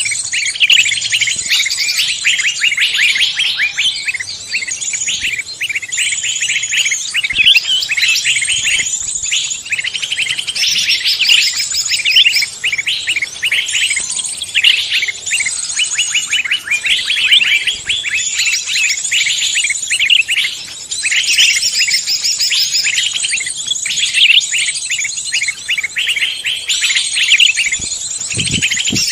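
Many small songbirds chirping, trilling and twittering at once in a dense, continuous chorus of quick, high notes.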